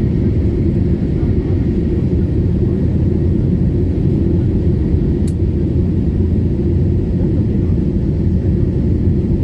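Jet airliner's engines and airflow heard from inside the cabin during takeoff: a steady, loud, low rumble.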